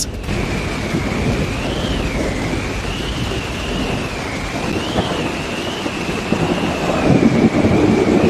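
Storm wind roaring with a low rumble, louder from about seven seconds in. A faint high tone wavers slowly up and down over it.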